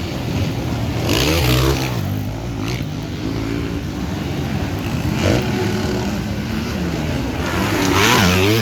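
Motocross bike engines revving as the bikes ride the track, pitch rising and falling with the throttle. The loudest moments come about a second in and again near the end.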